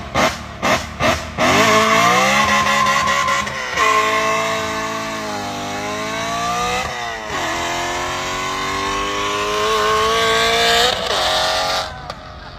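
A car engine revving: quick throttle blips at first, about three a second, then a long high-revving run whose pitch rises and falls, with sharp drops about four and seven seconds in and a final climb before it falls away near the end.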